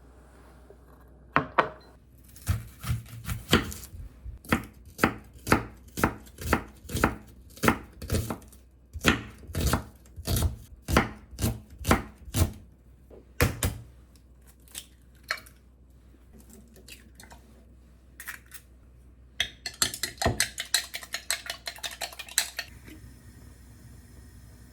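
Knife chopping on a cutting board: steady strokes about two a second, then after a pause a quick run of faster, lighter chops near the end.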